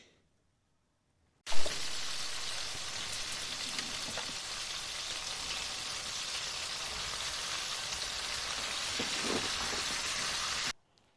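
Food frying with a steady sizzle. It starts abruptly with a loud hit about a second and a half in and cuts off suddenly near the end.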